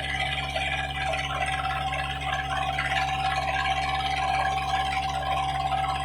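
A squid fishing boat's engine running at a steady drone, with water rushing and splashing over it.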